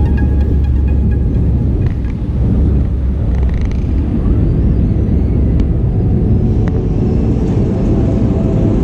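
Airbus A320-200 cabin noise: a loud, steady low rumble of engines and rushing air, with two faint clicks in the second half.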